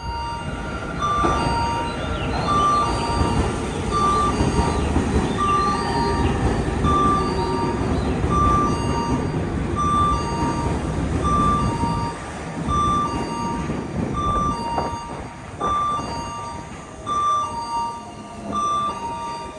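Electronic warning tone of platform screen doors, an alternating high-low two-tone beep repeating about every half second, over the low rumble of a waiting electric train. Near the end a faint rising whine sets in.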